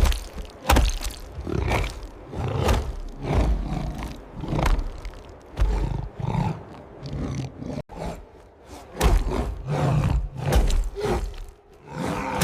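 Repeated big-cat roars and snarls in uneven bursts, mixed with sharp hits, from a sound-designed predator fight.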